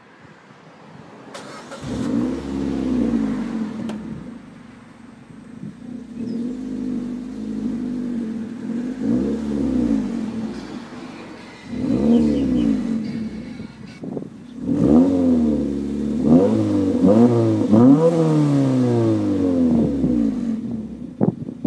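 Suzuki Swift Sport's 1.6-litre four-cylinder engine breathing through a custom back box and cold air intake, revved up and let fall several times, with a quicker run of blips in the second half.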